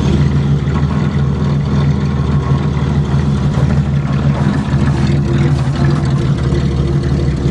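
Pontiac Grand Prix's 3.1-litre V6 idling steadily just after a cold start, with a steady higher tone joining about five seconds in.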